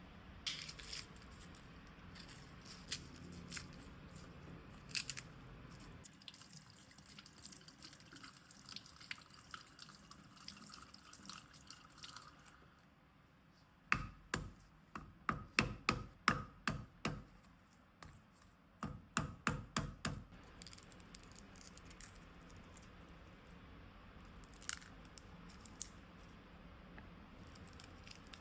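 Kitchen knife chopping vegetables on a cutting board: a few scattered taps at first, then two runs of quick, even chops, about three a second, the first lasting about three seconds and the second shorter.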